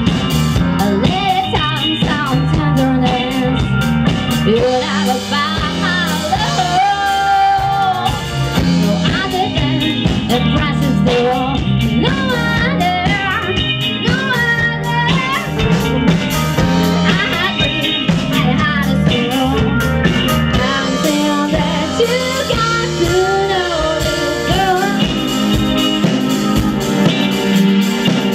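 Live rock band playing amplified music on electric guitar, bass and drum kit, with a melodic line bending up and down in pitch over the steady low notes.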